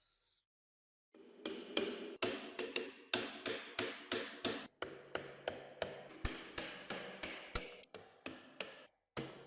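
Rapid hammer taps on metal, about three strikes a second after a second's pause, each giving a short metallic ring.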